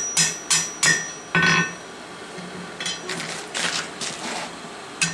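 Blacksmith's hammer striking a steel campfire poker on the anvil, about three blows a second for the first second and a half, each followed by a short metallic ring. Then a pause with lighter scraping and clinking, and one more blow near the end.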